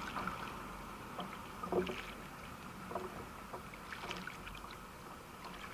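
Kayak paddle dipping into the water in regular strokes, a soft splash about once a second, over a steady background hiss.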